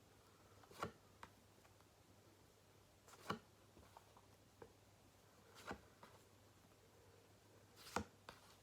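Near silence broken by four soft flicks of paper flashcards being turned or put down, one about every two and a half seconds.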